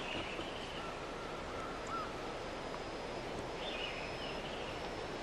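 Forest birds calling over a steady hiss of background noise: a short call at the start and another about three and a half seconds in, with a long thin whistled note between them that flicks upward at its end, and fainter high thin whistles.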